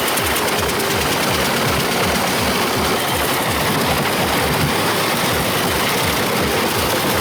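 Heavy engine running steadily, with a regular low throb a few times a second.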